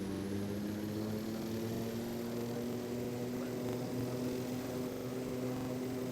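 Aeroplane engines running with a steady hum and a high thin whine, both slowly rising in pitch.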